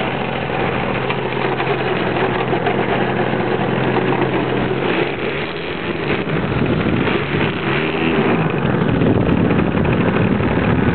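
DLE-30 single-cylinder two-stroke gas engine of a model airplane idling with its idle set high, as a new engine being broken in. About five seconds in its pitch starts to rise and fall, and near the end it runs louder.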